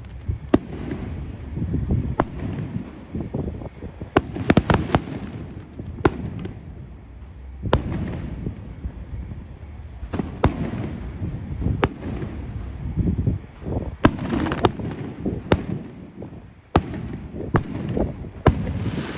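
Fireworks show: aerial shells bursting with sharp bangs, sometimes several in quick succession, over a steady low rumble of launches and echoes.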